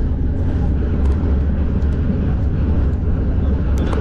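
A passenger train running, heard as a steady low rumble with a few faint clicks and one sharper click near the end.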